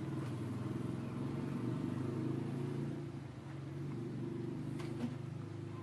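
An engine running steadily, a low even hum that swells and eases slightly.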